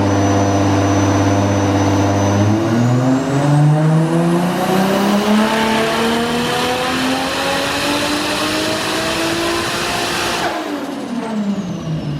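Big-single-turbo Toyota 2JZ inline-six in a Nissan Skyline R34 making a full-throttle dyno pull. The engine holds steady for a couple of seconds, then climbs in pitch for about eight seconds while the turbo whine rises with it. About ten and a half seconds in the throttle closes: the revs fall away and the turbo whine winds down.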